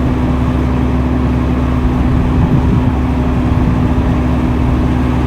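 Diesel engine of heavy earthmoving machinery running at a steady speed, a constant loud hum with no change in pitch.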